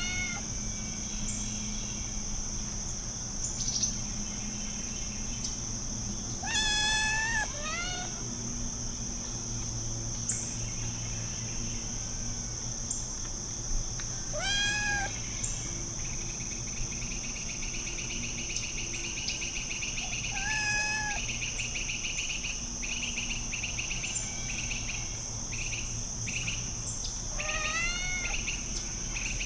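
Kitten meowing five times at intervals of several seconds, each call drawn out and pitched, over a steady high chirring of crickets.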